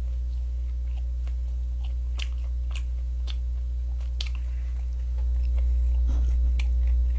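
Close-miked chewing of fried chicken: scattered short crunchy, wet clicks over a steady low electrical hum that grows louder about five seconds in.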